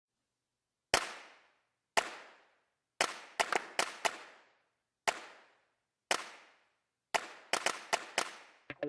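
Sharp, echoing hits, about one a second, coming in quick clusters of three or four twice. Musical notes start right at the end.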